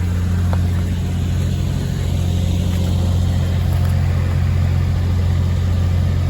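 Heavy diesel engine of a recovery truck idling steadily, a low even drone.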